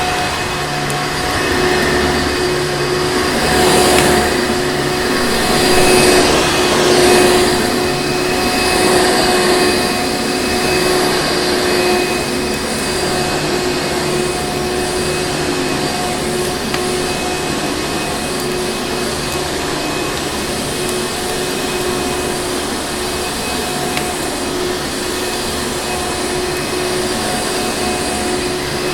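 Vacuum cleaner motor running steadily with a constant-pitched whine over a rushing air noise. It swells louder and brighter a few seconds in, then settles back.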